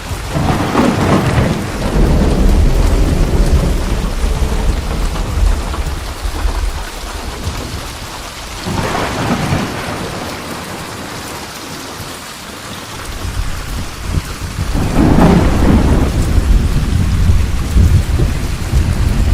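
Steady rain with rolling thunder. Thunder swells three times, near the start, about nine seconds in and about fifteen seconds in, the last rumbling on for several seconds, while the rain keeps up an even hiss between the rolls.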